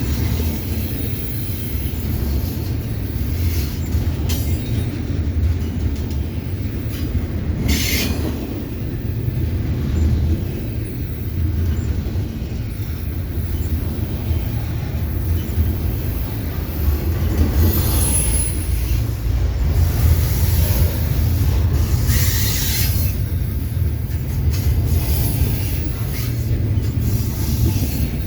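Freight train cars rolling past, a steady low rumble of steel wheels on rail with brief clatters now and then and a short high wheel squeal about 18 seconds in.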